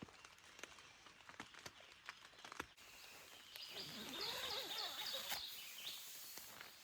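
Faint scattered clicks, then, from about three seconds in, a bird singing a quick series of high repeated chirps over soft outdoor background noise.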